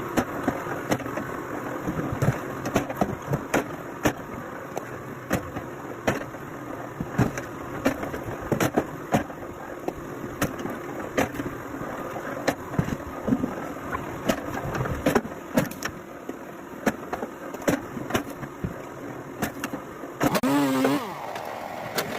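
Engine-driven firewood machinery running steadily, with frequent irregular sharp knocks and cracks. Near the end the sound changes abruptly to a wavering tone.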